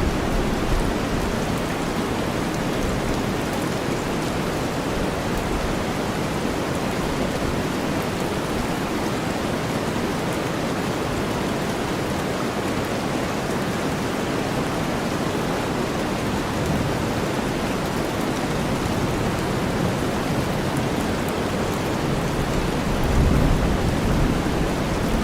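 Steady rain mixed with deep white noise, an even, unbroken hiss. A low rumble of thunder swells briefly near the end.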